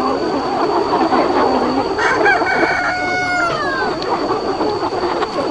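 A flock of chickens clucking and chattering without pause. About two seconds in, a rooster crows once: a long held call that falls in pitch at its end.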